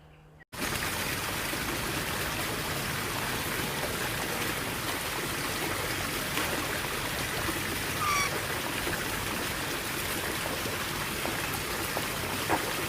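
Steady rushing of running water that starts abruptly about half a second in, with a few faint bird chirps about eight seconds in and again near the end.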